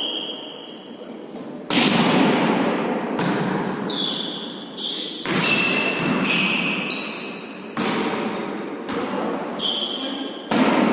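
A volleyball being hit and bouncing on a hall court, with several sharp echoing smacks, about four of them loud, and short high squeaks between them.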